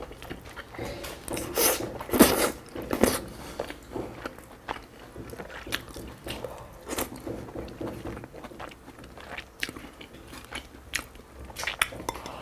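Close-miked chewing and biting of braised pork belly: an irregular run of mouth clicks and smacks, with louder bites about two and three seconds in and again near the end.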